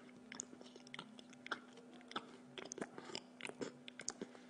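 A person chewing pizza close to the microphone, many quick irregular mouth clicks, over a steady hum.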